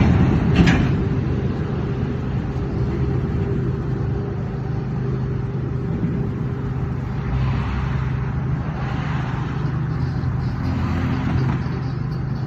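Steady low hum of an idling vehicle engine, with a sharp click about half a second in.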